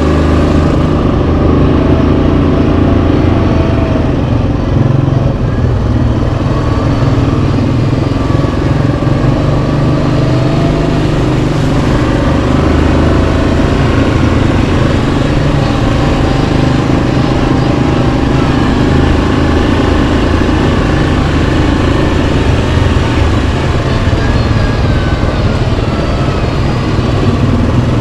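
Yamaha Kodiak 700 ATV's single-cylinder engine running steadily while riding, its pitch wavering a little up and down with the throttle.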